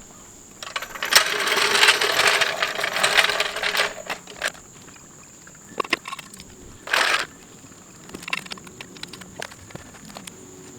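Metal hand tools clattering and clinking for about three seconds, opening with a sharp click, followed by a few separate clicks and another short clatter near seven seconds.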